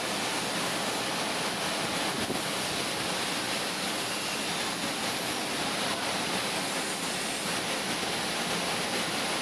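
Car wash equipment running with a steady rushing hiss.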